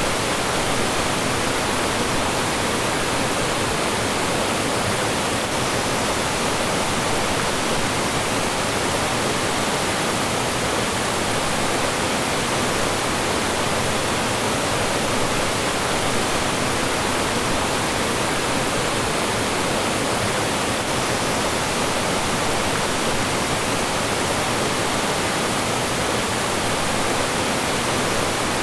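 Mountain stream rushing and falling over rocks: a steady, dense water noise with no change in level.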